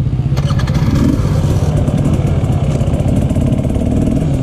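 Two-stroke enduro motorcycle engine running close by with the rapid firing of a small single, rising briefly in pitch a few times with throttle blips, among other dirt bikes' engines. A short rattle of clicks comes about half a second in.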